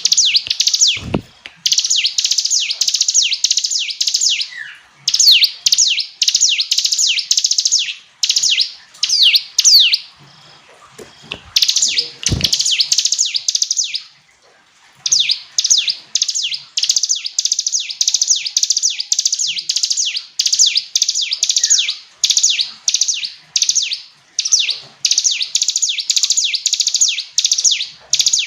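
A ciblek gunung (a mountain prinia) singing loudly in repeated phrases of rapid, falling notes, each phrase lasting a second or three with short pauses between. Two brief low thumps are heard, one about a second in and one around the middle.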